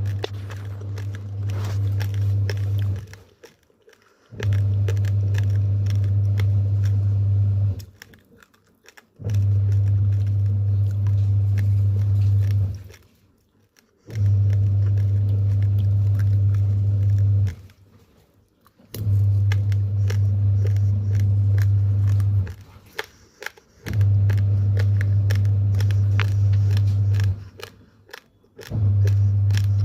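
Raw, uncooked rice grains being bitten and chewed: a run of sharp, crisp crunches. Under it a steady low hum switches on and off in a regular cycle, about three and a half seconds on and a second off.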